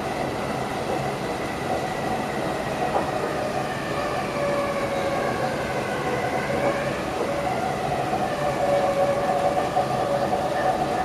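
Passenger train running, heard from inside the driving cab: steady rolling noise on the rails, with several whining tones that slowly drift up and down in pitch.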